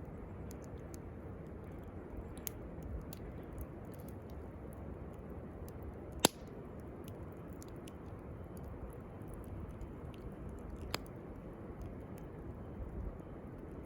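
Campfire crackling over a steady low hiss, with scattered small clicks and one sharp pop about six seconds in and another near eleven seconds.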